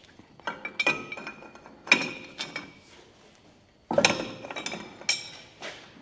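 Steel tools clinking against metal: a series of sharp clinks, each with a brief ring, coming in small clusters with a short pause between them.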